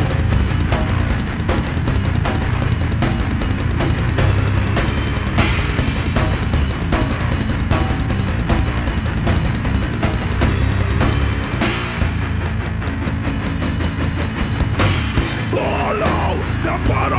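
Heavy metal band playing an instrumental stretch: a drum kit pounds steadily under distorted electric guitars and bass.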